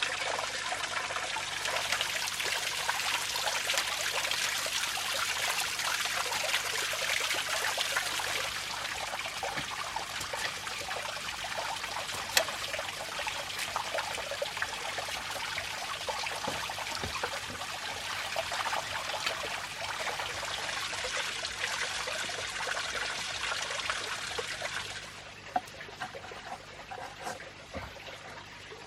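Water trickling and splashing steadily, with a few light knocks; the flow drops to a quieter trickle about 25 seconds in.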